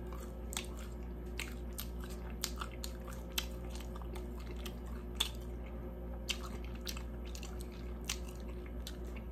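A person biting into and chewing a chicken nugget dipped in sauce, with small wet mouth clicks coming irregularly throughout. A steady low hum runs underneath.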